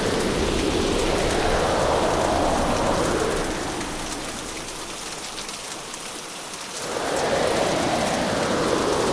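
Hurricane ambience of heavy rain driven by gusting storm wind. The gust dies into a lull a few seconds in, where the rain spatter stands out, and builds back to full strength about two seconds before the end.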